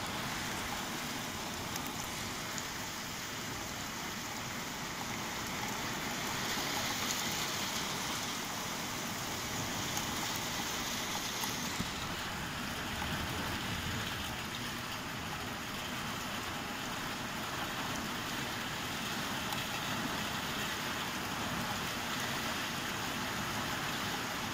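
Rain falling steadily in a thunderstorm, swelling a little for several seconds in the middle.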